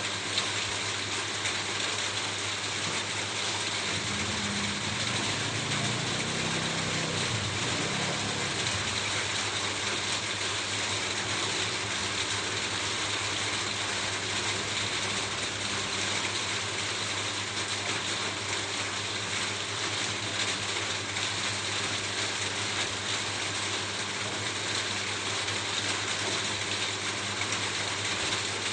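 Steady rain falling on a roof, an even hiss without let-up. A faint low hum rises under it for a few seconds, about four to nine seconds in.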